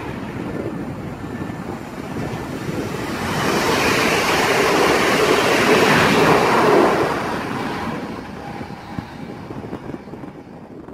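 Newag Impuls 31WE electric multiple unit passing close by at speed: a rushing of wheels on rail and moving air that builds from about three seconds in, is loudest in the middle and then fades. Wind buffets the microphone.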